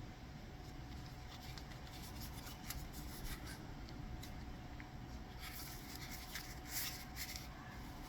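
Faint rustling and light clicks of small parts and their packaging being handled, busiest in the second half, over a faint steady hum.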